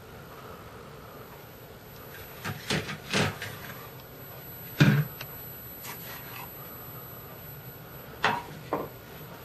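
A few knocks and taps of small objects being handled and set down on a work table, the loudest a single thump about five seconds in.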